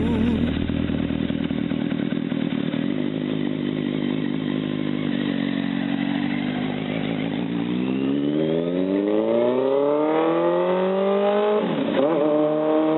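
Motor vehicle engine running at a steady pitch, then revving up in a long rising whine from about seven seconds in, with a brief sharp drop in pitch near the end before it holds high.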